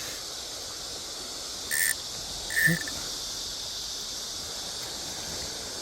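Crickets chirring, a steady high hiss of insects, broken by two brief sharp noises about two and three seconds in.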